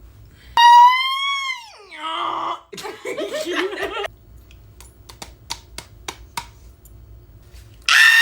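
A person's voice making silly imitation sounds: a high squeal that slides down in pitch, then a raspy growling noise, a few short clicks, and a shrill, steady squeal near the end.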